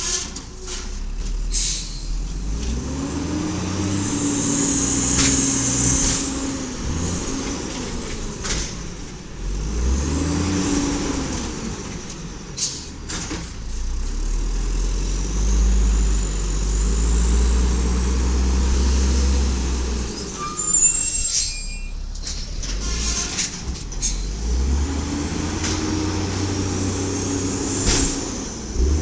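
Garbage truck engine revving up and falling back several times, with a burst of air-brake hiss.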